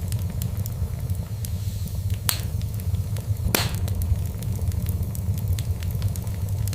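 Wood fire crackling over a steady low rumble, with many small ticks and two louder pops a little over a second apart near the middle, the second the loudest.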